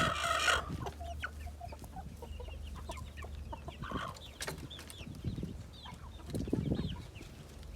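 Chickens clucking and calling, with a loud, harsh call right at the start and small high chirping calls through the middle.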